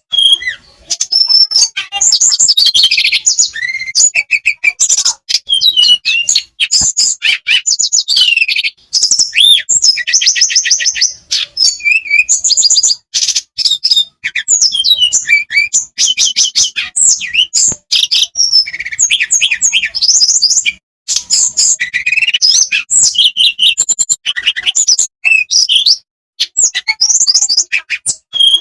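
Blue flycatcher (tledekan) singing without pause: long rolling runs of rapid, high-pitched trills and varied warbled phrases, broken only by brief gaps.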